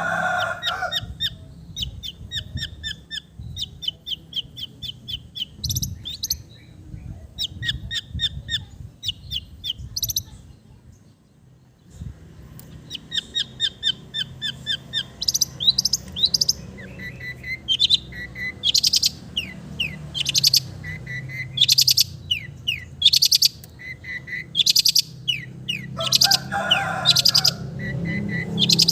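Long-tailed shrike (cendet) singing a loud, fast run of sharp chirps, trills and quick rising whistles, its song filled with mimicked sooty-headed bulbul (kutilang) phrases. The song breaks off briefly about eleven seconds in, then resumes with rapidly repeated piercing notes.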